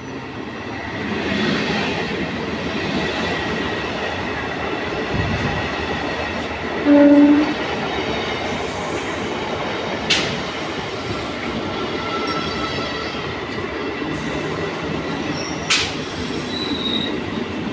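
Local passenger train running past along a station platform: a steady noise of coaches and wheels on the track. A short single-note horn blast sounds about seven seconds in, and there are two sharp clacks later on.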